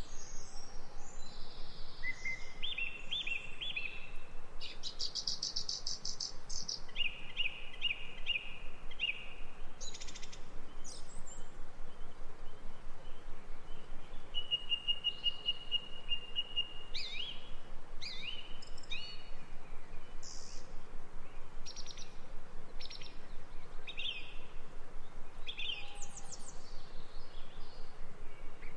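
Several songbirds singing and calling, with short chirps and rapid trills that overlap one another, over a faint steady hiss.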